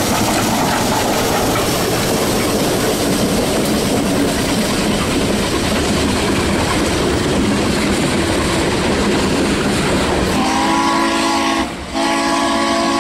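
A freight train rolling past close by: a steam locomotive and a diesel followed by loaded sand gondolas, steady heavy rail and wheel noise. About ten seconds in a horn starts blowing a steady multi-note chord, breaks off briefly and sounds again.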